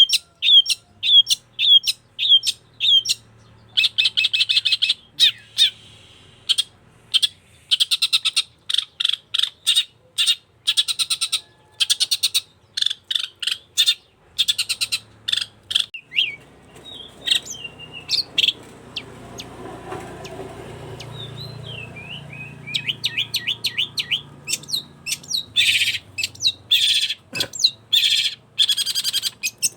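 Long-tailed shrike singing in full, vigorous song: runs of sharp repeated chirps, about two or three a second at first, and fast buzzy trills, with a few whistled glides. The song thins out for several seconds in the middle, where a faint low rumbling hiss shows underneath, then picks up again in dense trills near the end.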